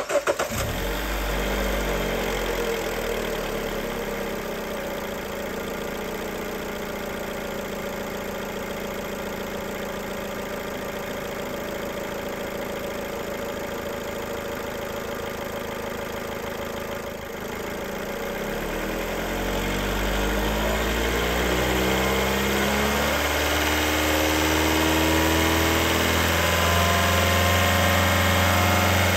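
Warm start of a Chrysler 2.4L Tigershark MultiAir inline-four: it catches right away and settles into a steady normal idle. About two-thirds of the way through, a lower sound strengthens and several tones slowly rise in pitch as the whole grows louder.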